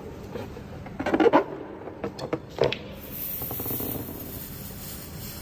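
Rubbing and clicking handling noises as a small helium cylinder or balloon is worked, then a steady faint hiss from about three seconds in, which fits helium gas flowing while being inhaled.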